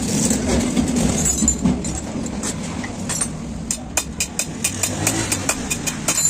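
Passing road traffic with a steady engine rumble, then from about four seconds in a quick run of sharp taps, four or five a second.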